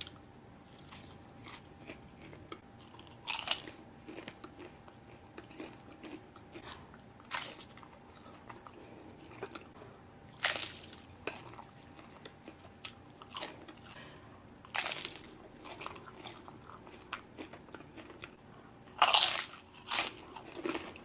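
A person chewing crisp fried tortilla close to the microphone: soft wet chewing with a loud crunch every few seconds, the biggest cluster of crunches near the end.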